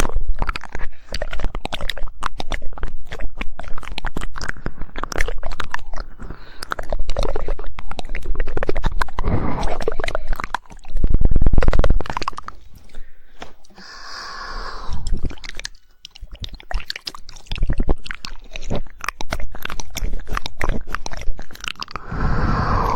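Close-miked ASMR mouth sounds: dense, irregular tongue clicks and wet mouth noises, with a loud muffled burst about halfway through.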